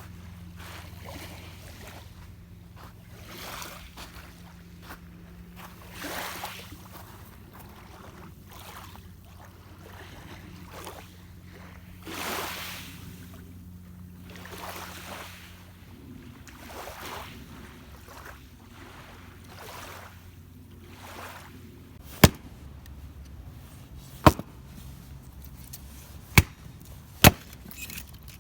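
Firewood being chopped or split: four sharp, loud strikes in the last few seconds, after a stretch of soft irregular rustling and handling noise over a low steady hum.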